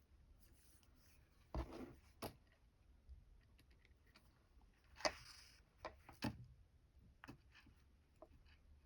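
Near silence with a few faint, short rustles and taps from hand embroidery work: fabric and thread being handled and drawn through.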